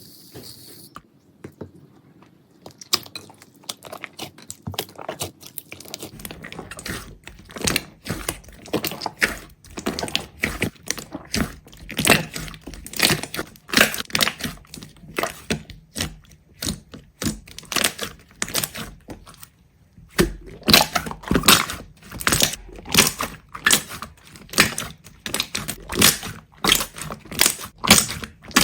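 A rapid, irregular run of sharp clicks and crackles, sparse for the first few seconds and then dense, with a short lull about twenty seconds in.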